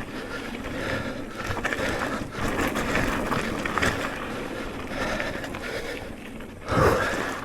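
An electric mountain bike rolling fast over a rough dirt trail: tyre noise, the chain and frame rattling over bumps, and wind on the microphone, with a louder rush near the end.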